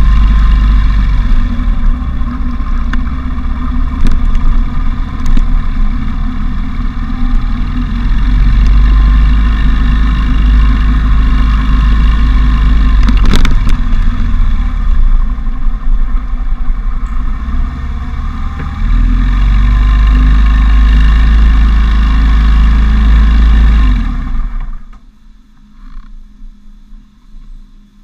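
Motorcycle being ridden with its windshield removed: the engine runs under loud wind rush on the action camera's microphone. A little before the end the noise drops away suddenly to a much quieter level.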